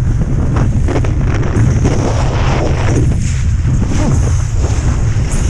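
Strong wind buffeting the microphone in a loud, constant low rumble, with irregular rushes of hiss as gusts hit.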